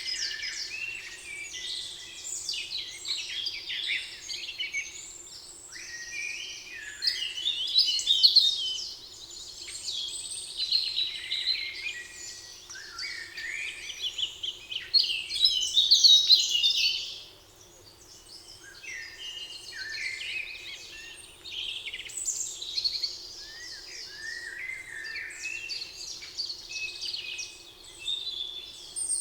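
Several songbirds singing at once: a dense chorus of chirps, trills and warbles, briefly thinning out a little past the middle.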